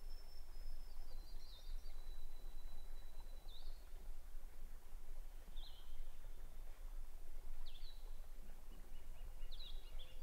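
Faint outdoor ambience with a songbird calling: long, thin, steady whistled notes and short chirps every two seconds or so, over a low hum.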